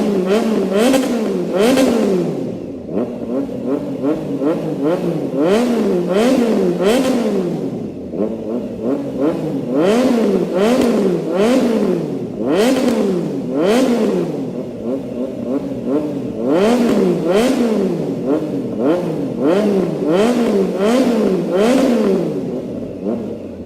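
Triumph Trident 660's three-cylinder engine revved hard through an aftermarket full exhaust with a loop and a short side exit. The pitch climbs and drops with each quick throttle blip, in runs of several blips separated by brief pauses.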